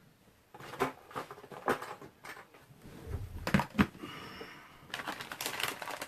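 Irregular clicks, taps and light knocks from objects being handled on a desk, with a short scraping rustle about four seconds in and a quick run of clicks near the end.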